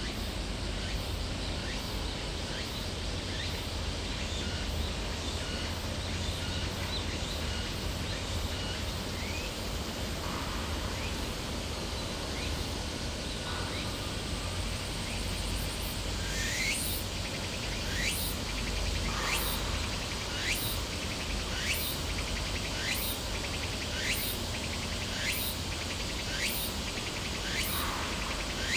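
Steady low outdoor rumble with faint scattered chirps. From a little past halfway, a high call sweeping downward repeats about once every second and a bit.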